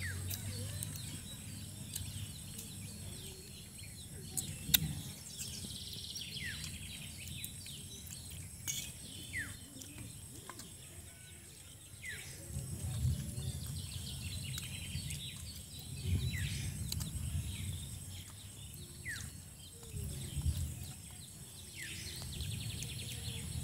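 Birds calling: a short falling whistle repeated every second or two, with bouts of higher chattering trills, over a low rumble that swells and fades. A sharp click about five seconds in.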